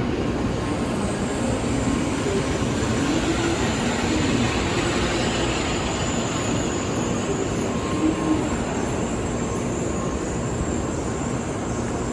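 Shinkansen bullet train running at speed, a steady rumble and rushing noise with a faint high whine over it.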